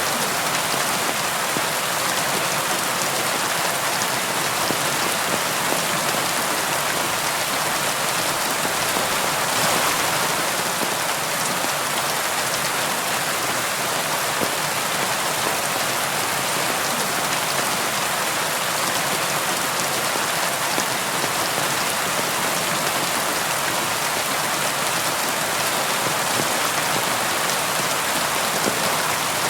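Steady rainfall: an even hiss of rain on a surface with a patter of individual drops, swelling slightly about a third of the way in.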